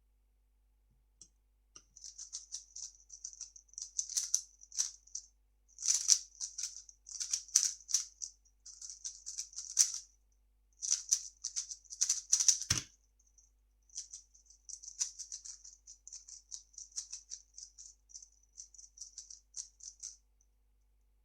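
3x3 speedcube being turned very fast: rapid plastic clicking and rattling of the layers in quick bursts with brief pauses. There is a single sharp thud about halfway through, then the turning resumes.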